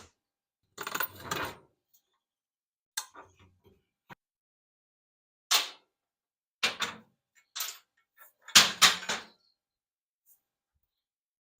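Metal tools and parts being handled while the scooter's exhaust is worked on: a scrape about a second in, then a string of separate clanks and knocks, the loudest near the end.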